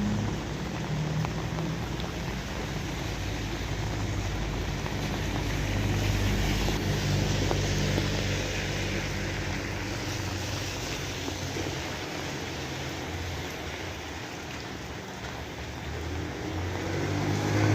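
Steady rain falling, a dense even hiss. A low droning hum sits underneath, louder around the middle and again near the end.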